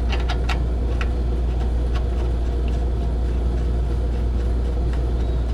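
A steady low machine hum, with a few light metallic clicks in the first two seconds as parts are handled on the front end.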